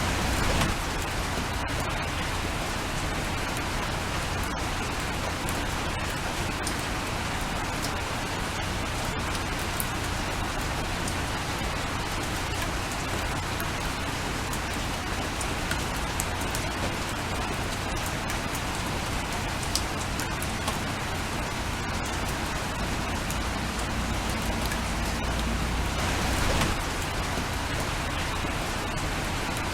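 Steady rain falling, with scattered sharper raindrop ticks against the even patter and a brief swell about 26 seconds in.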